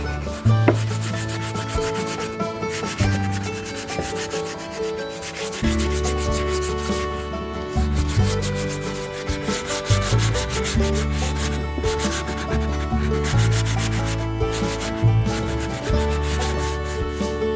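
Sandpaper rubbing on wood in quick, repeated strokes, with background music and its changing bass notes underneath.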